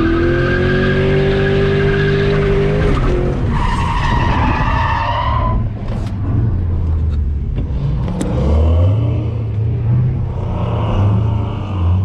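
Ford Mustang's 4.6-litre three-valve V8, heard from inside the cabin, held at high revs for about three seconds while drifting. A tire squeal follows for about two seconds, then the engine drops to low revs.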